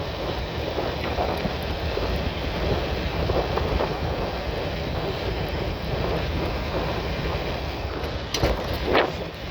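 Steady rushing noise of a bike ride in the rain: wind on the microphone and tyres on a wet road. Two brief knocks sound near the end.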